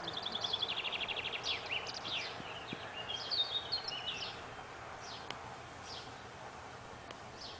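Small songbirds singing over steady background noise: a fast trill of repeated high notes in the first second and a half, then chirps and a warbling phrase, then a few scattered high calls.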